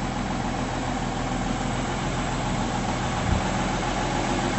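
Mercedes-Benz M129 straight-six with mechanical fuel injection running steadily at a slightly raised idle, while its injection system is being flushed and cleaned after long disuse. A brief low thump about three seconds in.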